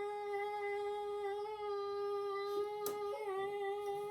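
A child's voice holding one long, steady sung or hummed note, with a sharp click about three seconds in.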